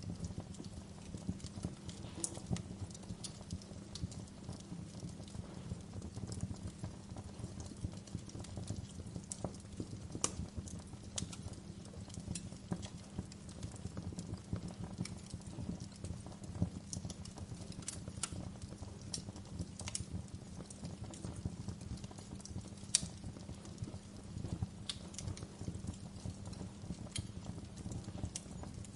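Wood fire crackling in a fireplace: a low steady rumble of burning with irregular sharp pops, one louder pop about three-quarters of the way through.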